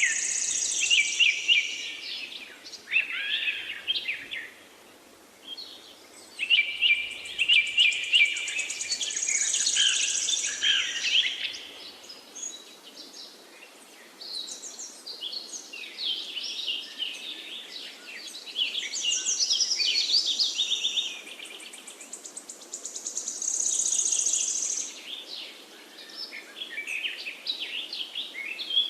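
Songbirds singing: bouts of quick, high chirping and warbling phrases, some overlapping, separated by short quiet gaps, over a faint steady background hiss.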